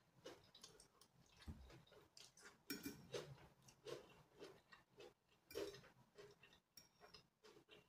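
Quiet close-up chewing of a mouthful of noodles and vegetables, a string of small wet clicks and smacks, busiest about three seconds in and again near six seconds.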